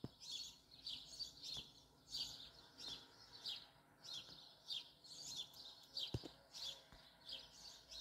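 Faint, repeated high chirps from a small bird, about two a second, with one soft knock about six seconds in.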